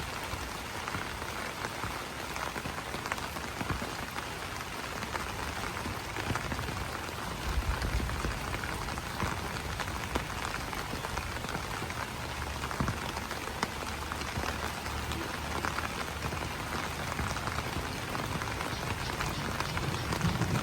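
Steady rain pattering on broad banana leaves, a dense spread of fine drop ticks. A low rumble sits underneath from about a third of the way in.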